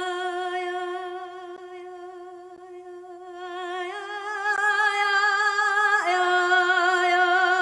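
A woman singing one long held note of a Kurdish folk song, fading and then swelling with wide vibrato. The pitch steps up about four seconds in and drops back about two seconds later.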